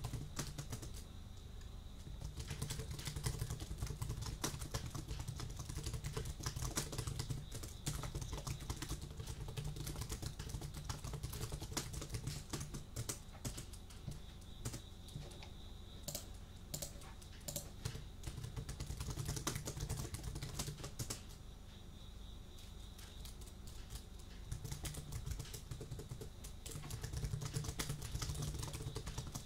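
Typing on a computer keyboard: a fast, continuous run of key clicks, with brief lulls.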